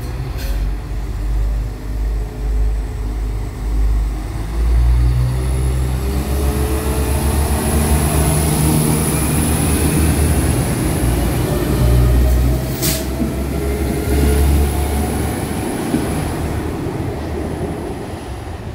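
Northern Ireland Railways CAF diesel multiple unit passing close by: a heavy rumble of engines and wheels on the rails, with engine notes slowly rising in pitch and a high steady whine. Two sharp clicks stand out, one near the start and one about two-thirds through.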